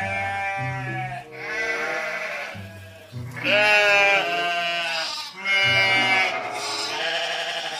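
Sheep bleating about five times, each call a quavering, wavering bleat about a second long, over background music with low sustained notes.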